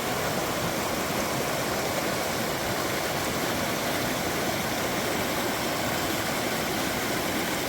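Creek swollen with snowmelt, rushing steadily.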